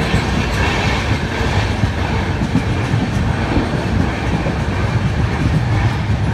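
Passenger express train running along the track, heard from a carriage window: a loud, steady rumble and rattle of the wheels on the rails.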